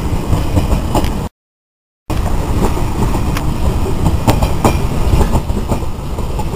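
Passenger coaches of a passing train rolling by close at hand: a steady low rumble with irregular sharp clacks of wheels over rail joints. The sound cuts out completely for under a second about a second in, then resumes.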